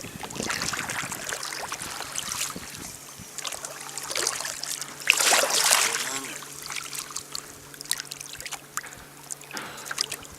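Water splashing and trickling at the side of a kayak as a jug line with a hooked flathead catfish is hauled in, with a louder splash about five seconds in.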